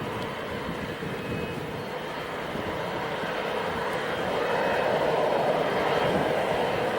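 Jet airliner engines running with a steady rush, growing louder about halfway through.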